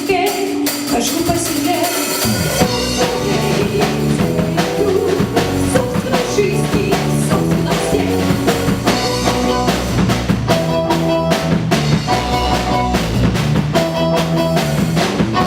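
A live band playing an instrumental passage: drum kit and a bass line come in about two seconds in under a held melodic line, and the music stops abruptly at the end.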